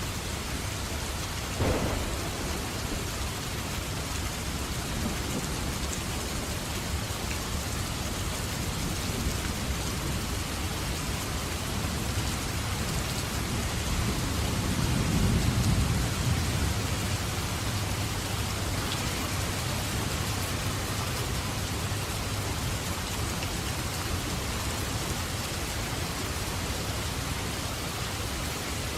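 Steady rain with thunder: a sharp clap about two seconds in, and a low rumble that swells and fades around the middle.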